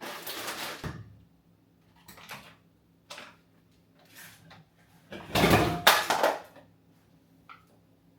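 Rustling and knocking of kitchen items being handled and moved around a cupboard, in short bursts, the loudest and longest about five seconds in. A faint steady low hum sits underneath.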